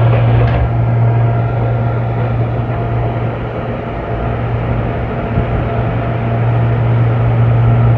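Steady low hum and rumble of a train, heard from inside the carriage, easing slightly in the middle and building again near the end.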